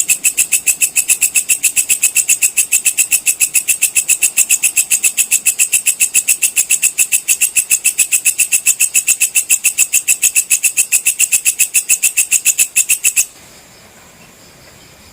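Walang kecek (belalang kecek) insect calling: a loud, shrill, even pulsing of about six pulses a second that stops abruptly near the end.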